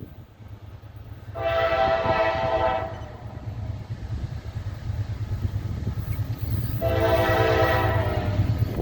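Freight locomotive air horn sounding two long blasts, each about a second and a half, a few seconds apart, over a train's low rumble that grows louder.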